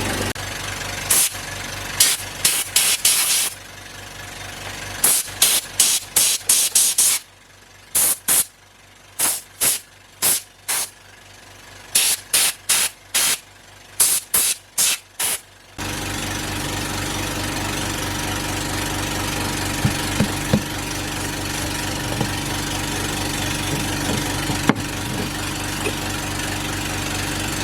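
Dozens of short hissing spray bursts, a few tenths of a second each, in quick groups through the first half. About halfway through they stop and a steady motor hum takes over, with a few light clicks.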